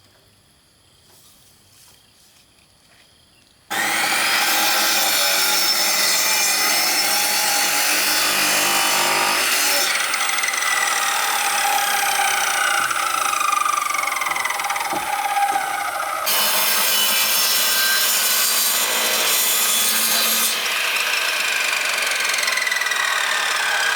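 Power saw cutting through wood or bamboo. It starts suddenly about four seconds in, and its whine drops slowly in pitch as it bites. It breaks off and resumes abruptly twice.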